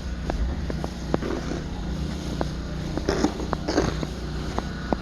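A motor vehicle's engine running with a steady low hum, with scattered sharp clicks and a couple of brief rough crunching noises about three seconds in.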